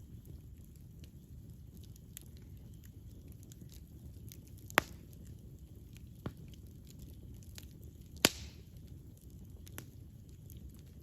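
Wood fire burning with a steady low rumble and scattered small crackles, with two sharp loud pops about five and eight seconds in.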